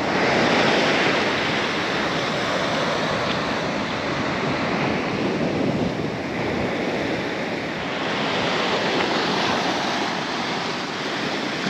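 Ocean surf breaking and washing on a beach, swelling louder about twice, with wind buffeting the microphone.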